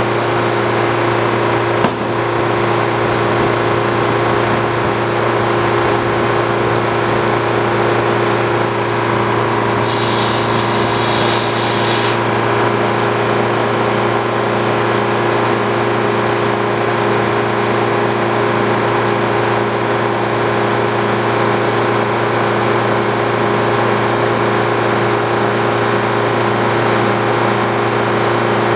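Old Frick sawmill machinery running at a steady, even hum, with one sharp click about two seconds in and a brief hiss around ten seconds in.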